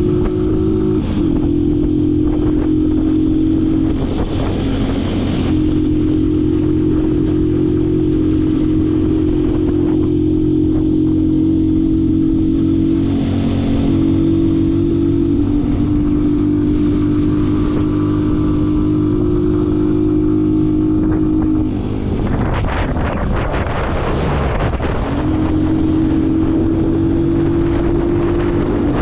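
Yamaha MT-07 parallel-twin engine through an aftermarket full-system exhaust, running at steady revs while riding, with a few short breaks in the note as it shifts gear. About three seconds before the end the engine note gives way to a rushing noise, then comes back.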